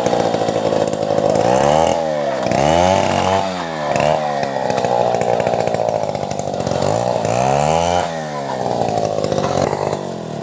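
Chainsaw running at high revs while ripping timber lengthwise into planks, its engine pitch repeatedly dipping and rising again as the load changes.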